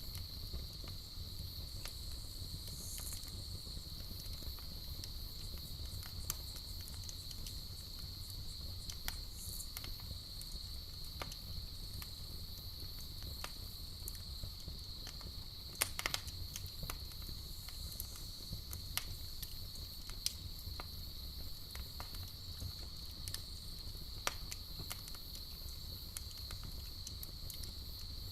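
Campfire crackling, with scattered sharp pops over a low steady hiss; the loudest pops come about 16 seconds in. Underneath runs a steady high trill of night insects such as crickets.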